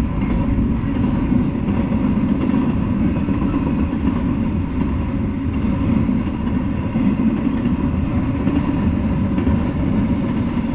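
Double-stack container freight train rolling past close by, its steel wheels on the rails making a steady low rumble.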